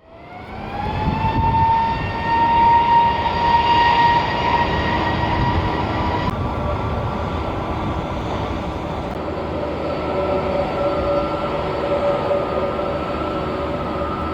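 Airbus A330 turbofan engines at high thrust for takeoff. A loud whine climbs in pitch over the first second or so, then holds steady over a rushing roar. About six seconds in, the sound switches abruptly to a lower steady whine.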